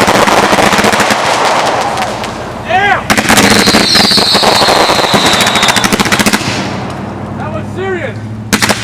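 Fireworks going off in rapid-fire strings of sharp cracking reports: one run at the start, another starting about three seconds in and slowly fading, and a new run right at the end. A thin, slowly falling whistle sounds over the second run.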